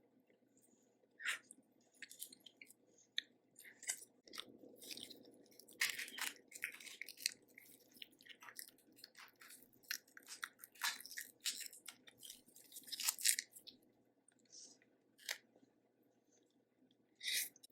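A person eating a Cajun seafood boil close to the microphone: chewing and crunching, with scattered sharp clicks and crackles.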